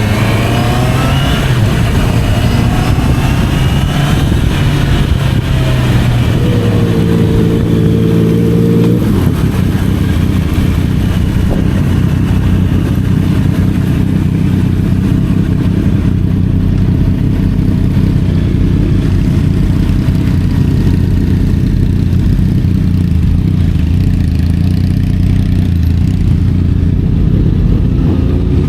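Honda CBR 650R's inline-four engine under way. The pitch rises through the first few seconds, holds a steady note for a couple of seconds, then the engine runs evenly at cruising speed over a steady low rumble.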